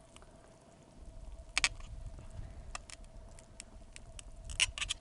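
Wood campfire crackling: scattered sharp pops and clicks, the loudest about a second and a half in and again near the end.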